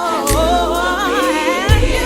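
Gospel song: sung vocals with gliding, ornamented runs over a sustained bass, with a drum hit near the end.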